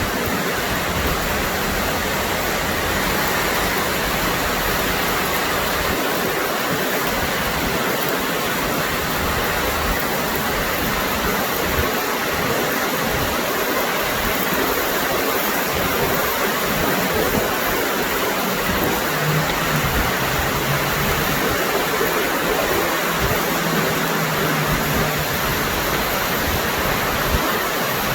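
Heavy rain falling, a loud, dense, even hiss that never lets up. A faint low hum joins for a few seconds about two-thirds of the way through.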